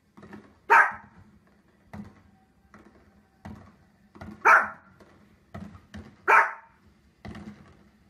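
Small fluffy dog barking three loud, sharp times at fireworks on a television, with fainter pops from the televised fireworks in between.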